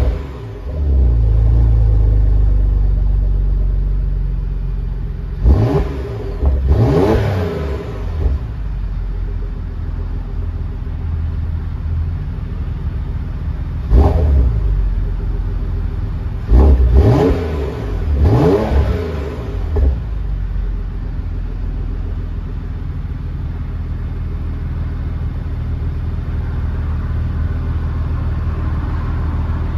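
2015 Porsche Macan Turbo's twin-turbo 3.6-litre V6 heard at the exhaust, still cold shortly after a cold start. It is blipped about five times in the first twenty seconds, each rev rising and dropping back quickly, then settles to a steady idle.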